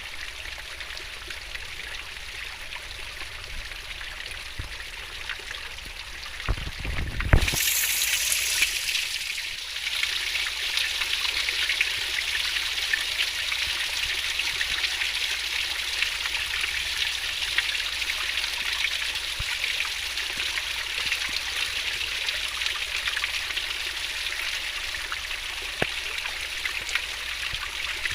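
Fast-flowing river water rushing and splashing steadily. About seven seconds in, a brief low rumble and knock, after which the water is louder and brighter.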